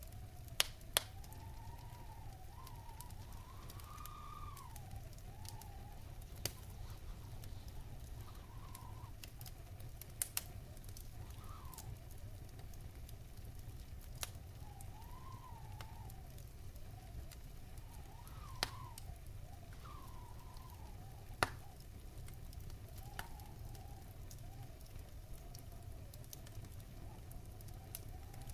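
Wood fire burning in a fireplace: a steady low rumble with sharp crackles and pops here and there, the loudest about half a second and a second in and near 18 and 21 seconds. A faint whistle wavers up and down in pitch over the fire throughout.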